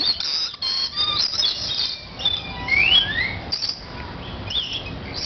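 A group of lorikeets giving many short, high-pitched squawks and chirps, with a couple of rising calls about three seconds in.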